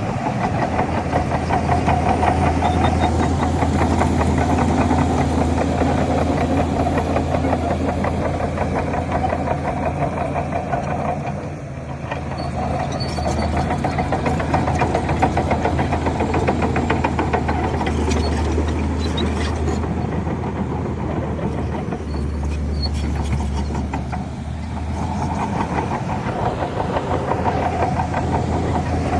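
Heavy diesel earthmoving engine running steadily, easing off briefly about twelve seconds in and again near twenty-five seconds.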